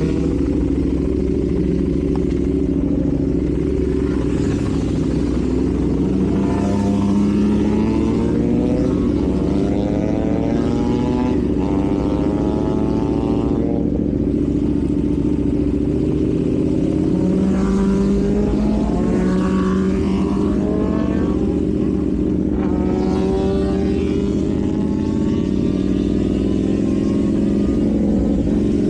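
KTM 790 Duke's parallel-twin engine through an Arrow full exhaust system, running under way and repeatedly rising in pitch as it accelerates, dropping back between the rises as it shifts gear.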